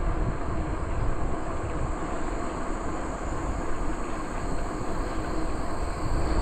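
Wind buffeting the microphone and the tyres rumbling along the trail on a moving bicycle, a steady low rumble. Behind it there is a constant high drone of insects.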